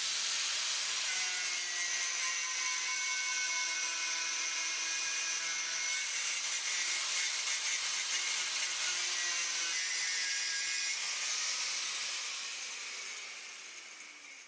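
Angle grinder working steel, a steady high whine over harsh grinding noise, then winding down with falling pitch over the last couple of seconds.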